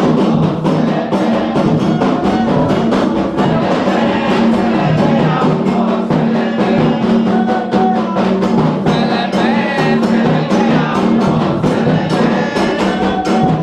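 Candomblé ritual drumming: atabaque hand drums playing a fast, steady rhythm with a bell or wood-block-like click, and voices singing over them.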